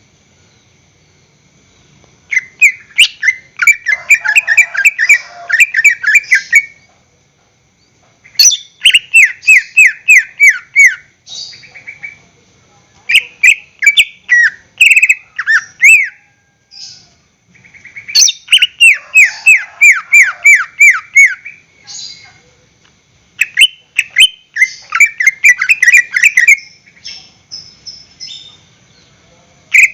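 Cucak ijo (green leafbird) singing in loud phrases of rapid, repeated down-slurred whistled notes, each run lasting a few seconds with short pauses between, beginning about two seconds in.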